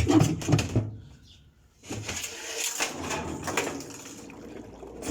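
Handling noise from a washing machine being worked on. After a short pause there is a couple of seconds of scraping and clattering as parts are moved to get at the stuck underwire.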